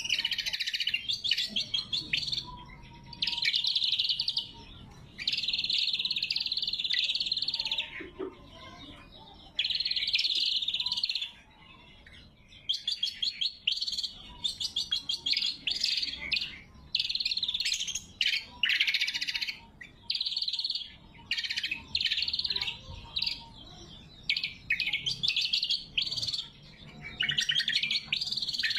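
Greater green leafbird (cucak kombo) singing: phrases of fast chirps and trills, each a second or two long, separated by short pauses, becoming shorter and choppier about halfway through.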